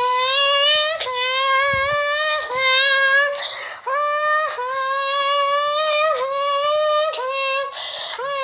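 A person vocally imitating a Ferrari LaFerrari's engine: a high, buzzing held note that keeps a steady pitch, broken about five times by quick dips and snaps back, like gear changes at high revs, with two sharp breaths taken mid-run.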